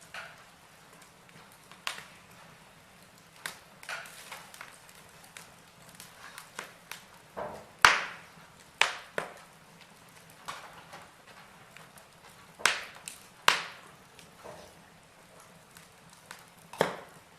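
Logs burning in a fireplace, crackling with irregular sharp pops over a faint steady hiss. The loudest snaps come about eight seconds in and again around thirteen seconds.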